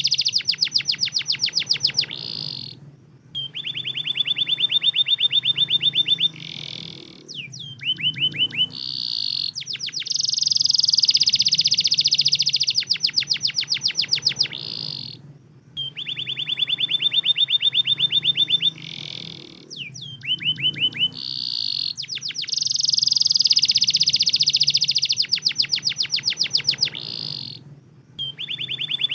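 Domestic canary song: loud, fast rolling trills and chattering phrases, each a few seconds long with short breaks between. The same sequence comes round again about every thirteen seconds, as in a looped lure recording played to set silent canaries singing.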